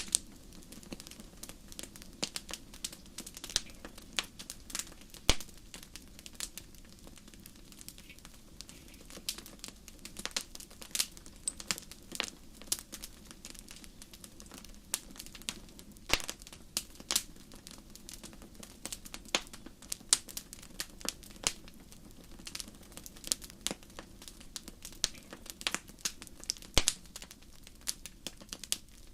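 Wood campfire crackling, with irregular sharp pops and snaps scattered throughout over a low steady background.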